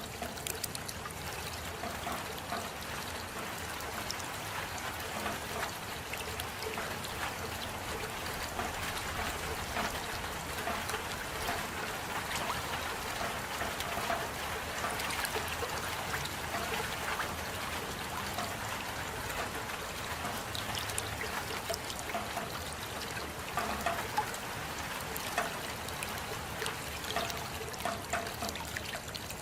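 Steady rain with water trickling: an even hiss dotted with many small drop sounds.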